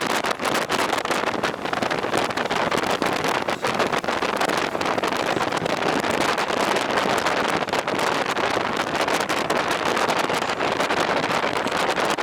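Wind rushing over the microphone of a moving two-wheeled vehicle: a steady, dense rush with rapid buffeting flutter and no clear engine note.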